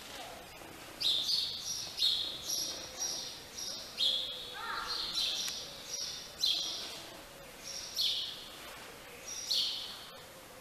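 Small birds chirping: high, quick chirps repeating every half second to a second, over a faint steady hum.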